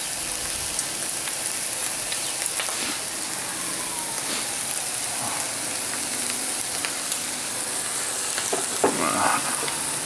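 Turkey bacon and sliced vegetables sizzling in butter on a Blackstone 17-inch propane griddle: a steady frying hiss with a few light clicks and a brief knock near the end.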